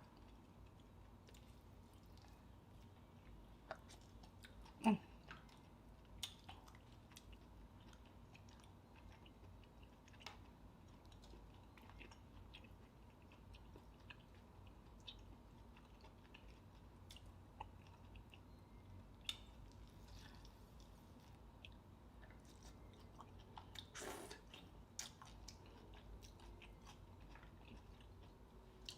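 Faint chewing and mouth sounds of someone eating green-lip mussels, with scattered small clicks and a couple of louder knocks.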